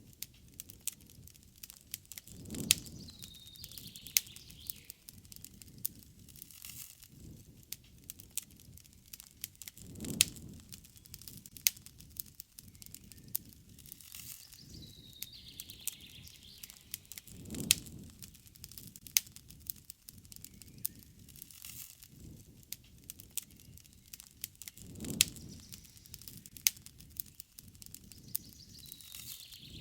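Wood campfire crackling, with sharp pops and snaps throughout and a soft low rush that comes back about every seven and a half seconds. A bird calls now and then in short falling chirps, three times.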